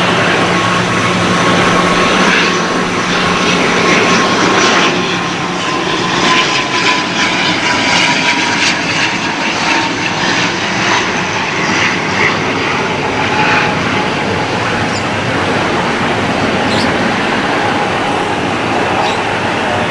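Mandarin Airlines ATR 72-600 turboprop, with Pratt & Whitney PW127 engines, passing close by at the airport: a loud, steady engine-and-propeller drone with a whine that slowly falls in pitch. A low hum drops out about five seconds in, and the sound eases slightly after that.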